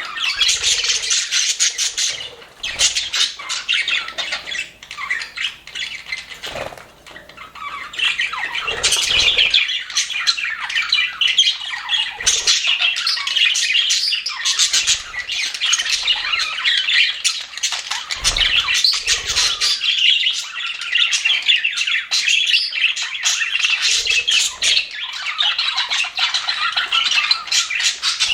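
A flock of budgerigars chattering and warbling continuously, a dense mix of squawks and chirps that thins out for a few seconds before picking up again.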